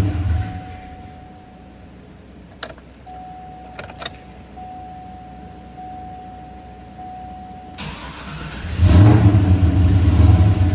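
Supercharged 416 cubic-inch V8 struggling to start and stay running. It dies away in the first second, and after a pause with a few clicks it cranks and fires loudly again about eight seconds in, then falls off near the end. The owner blames its too-big cam for the rough, stalling running.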